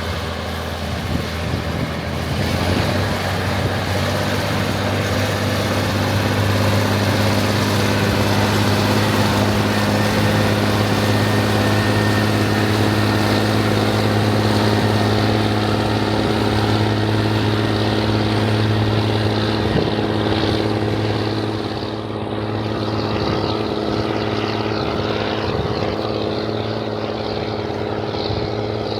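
Rába 250 tractor's diesel engine running steadily, a deep even hum; it builds over the first few seconds and eases slightly about two-thirds of the way through.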